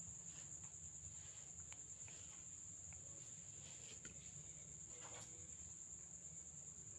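Near silence: a steady high-pitched trill over a low hum, with a few faint clicks.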